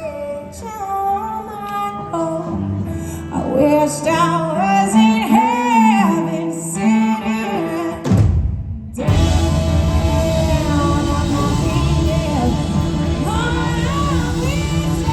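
Live blues-rock performance: a woman's voice sings bending lines over sparse accompaniment. About eight seconds in there is a brief break, then the full band comes in louder.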